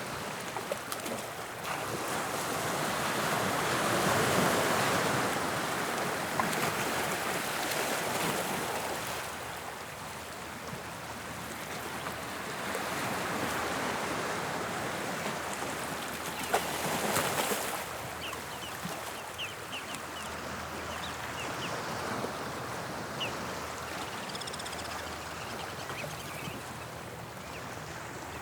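Sea waves breaking and washing on the shore. The sound swells and fades in slow surges about every nine seconds, with a sharper crash about seventeen seconds in.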